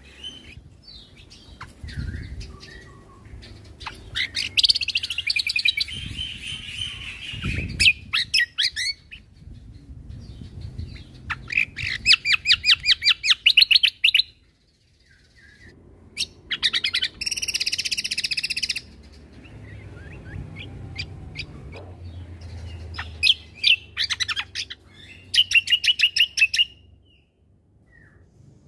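Cucak kombo (kecial kombo) songbird singing in repeated bursts of fast, rapid-fire high notes, several times, with short chirps between the bursts.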